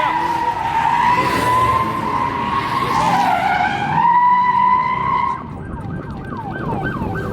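Car tires squealing on pavement with a steady high squeal that dips in pitch about three seconds in and stops about five seconds in. Voices follow.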